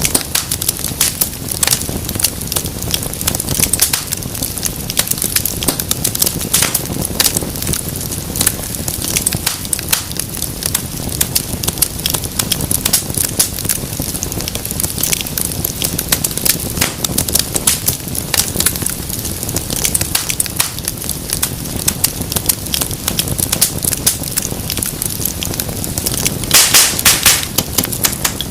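Wood fire crackling and popping steadily over a low rumble of flame, with a brief run of louder, sharper pops near the end.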